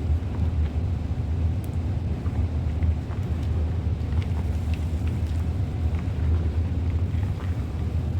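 Steady low rumble with faint, scattered small crackles of gym chalk reforms being crumbled.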